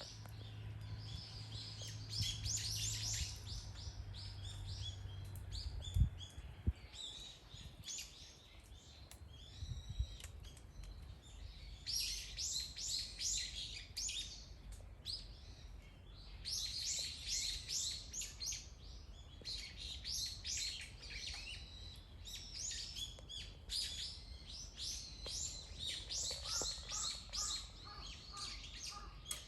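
Several songbirds chirping and singing in quick repeated phrases, in bouts with short lulls. A low hum sounds for the first few seconds, with a couple of sharp knocks, and a lower chattering call comes in near the end.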